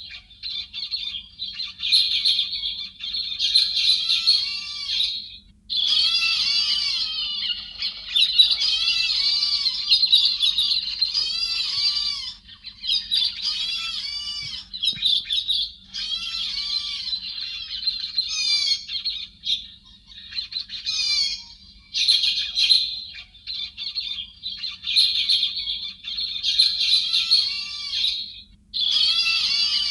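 A flock of thrushes (Vietnamese 'chim hét xoan') calling together: dense, overlapping high chirps and squeaky chattering notes in bouts of several seconds with short lulls between them.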